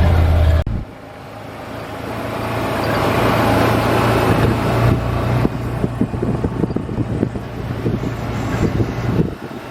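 Vehicle driving off, its engine hum dropping suddenly just under a second in and then building steadily over the next few seconds, with many small knocks and rattles from the ride.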